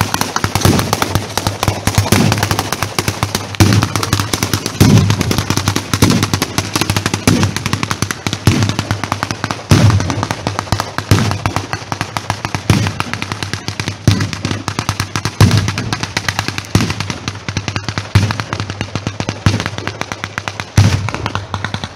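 Fireworks going off in a loud, continuous barrage: a dense, rapid crackle of reports with a heavier bang more than once a second throughout.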